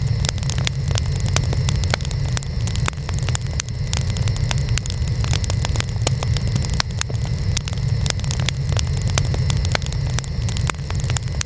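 Burning wood fire with many sharp crackles and pops at irregular intervals over a steady low rumble.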